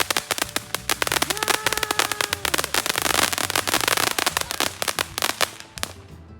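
Consumer fireworks going off in a fast, dense string of crackling pops that thins out and stops near the end.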